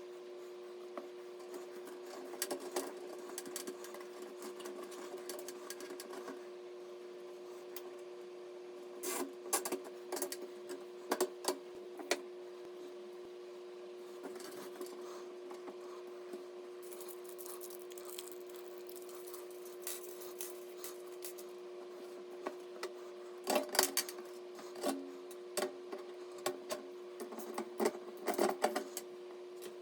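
Scattered clicks, taps and rubbing of computer parts being handled and fitted during a PC build, in clusters a few seconds apart, over a steady hum.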